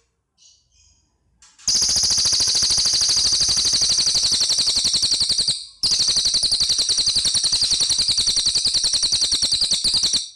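Cililin bird calling: a few faint chirps, then two long, very rapid rattling trills of about four seconds each, broken by a short pause.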